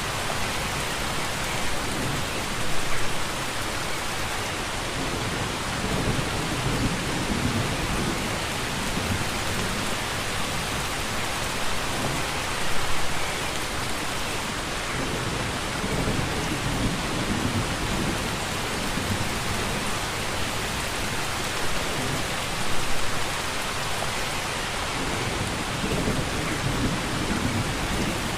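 Steady rain falling, an even hiss of many drops, with short low rumbles swelling up every few seconds, the strongest about every ten seconds.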